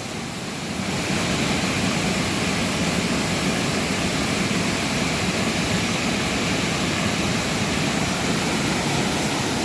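Water rushing steadily down a waterfall cascade, a little louder from about a second in.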